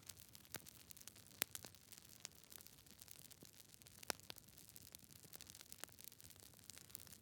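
Campfire burning: a faint steady hiss of flames with irregular sharp crackles and pops from the burning wood, a few louder pops standing out.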